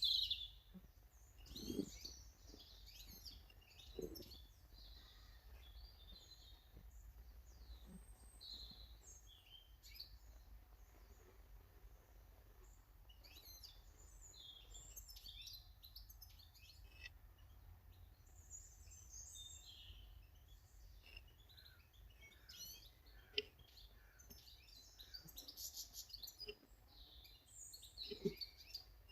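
Small garden birds chirping and calling, many short high chirps scattered throughout, with a few soft low thumps.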